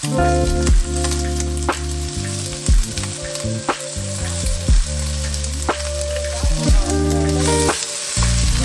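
Asparagus and sliced mushrooms sizzling as they fry in a stainless steel sauté pan, under background music with a steady beat about once a second.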